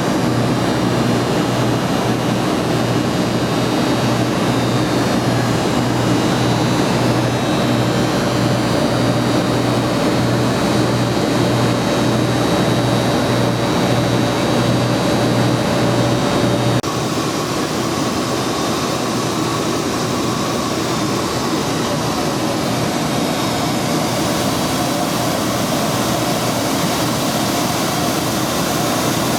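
Steady jet airliner noise, a continuous rush with a low hum and a held mid-pitched tone. About seventeen seconds in it switches abruptly to a slightly quieter, plainer steady rush.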